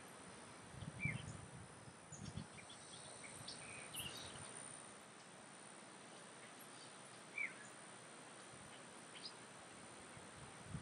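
Faint outdoor ambience: a few short, scattered bird chirps over a steady, faint high-pitched hiss, with a couple of soft low thumps in the first few seconds.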